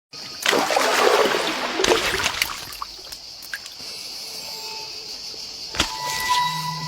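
Water splashing and trickling, loudest in the first two seconds, over a steady high hiss, with a brief pitched tone near the end.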